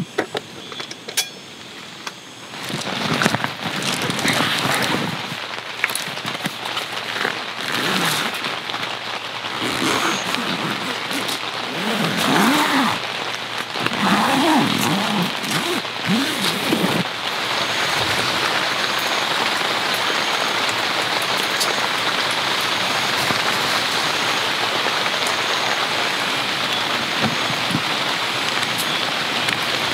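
Steady heavy rain falling. Through the first half, scattered knocks and some wavering low tones sound over the rain.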